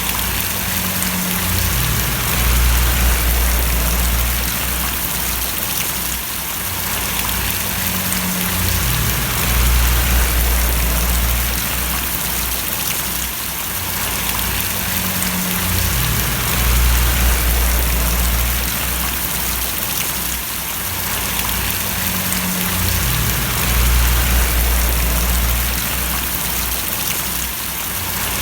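Steady rain falling as a dense, even hiss, with a low rumble that swells and fades about every seven seconds.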